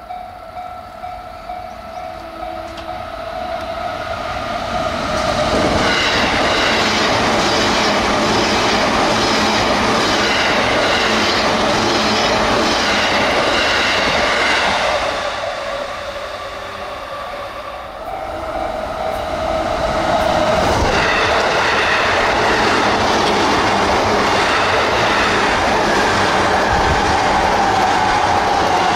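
Electric train running at speed over the rails, with a regular clickety-clack of wheels over rail joints that swells into a loud, continuous rumble. The noise eases briefly about halfway through, then builds again.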